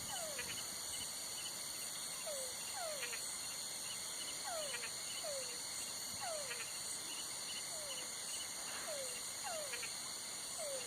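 Night chorus of crickets trilling steadily in several high pitches, with short calls from another animal that slide downward in pitch, about once a second.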